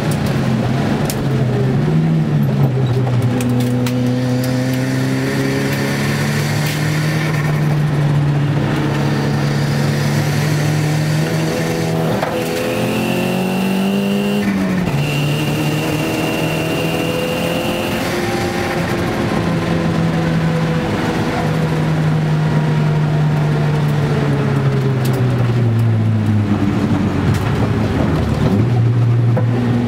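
Nissan Gazelle's turbocharged CA20DET four-cylinder engine heard from inside the cabin, running hard on track: its pitch climbs as it accelerates and drops sharply at each gear change, falling low near the end before picking up again. A high, steady whine sits over it for a few seconds midway.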